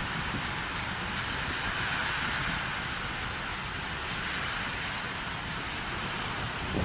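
Heavy rain falling steadily on brick paving, an even hiss.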